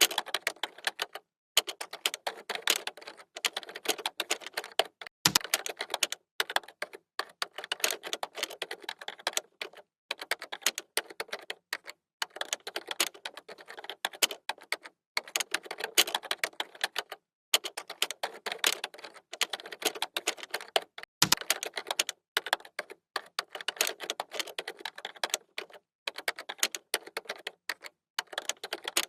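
Fast typing on a computer keyboard: rapid key clicks in runs separated by brief pauses, with two heavier keystrokes, one about five seconds in and one about twenty-one seconds in.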